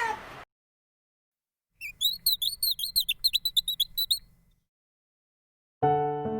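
A small bird chirping in quick, high notes for about two seconds, after the last moment of a cat's meow. Piano music begins near the end.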